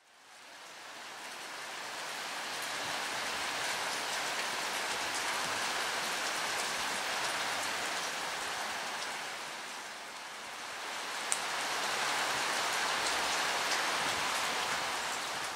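Steady hiss of light rain with faint scattered ticks of drops, fading in over the first couple of seconds.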